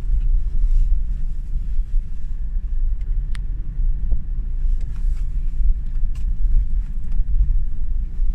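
Isuzu MU-X driving, a steady low rumble of engine and road noise heard from inside the cabin, with a few faint clicks.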